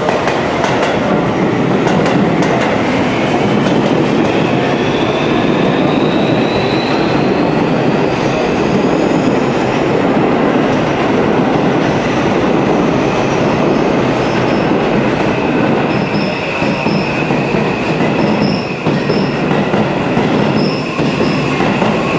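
Seibu 001 series Laview limited express train arriving at a station, running under braking with steady rolling noise. A high whine rises in pitch over the first several seconds, and in the second half steady high tones and short repeated wheel squeals come in.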